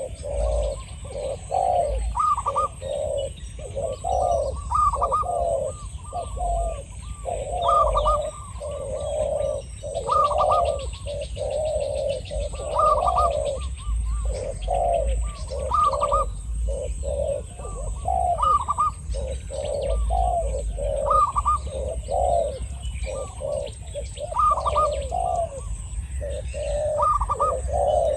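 Spotted doves cooing over and over, the decoy and a wild male calling back and forth so that their phrases overlap almost without pause. Each phrase climbs to a higher note and drops back.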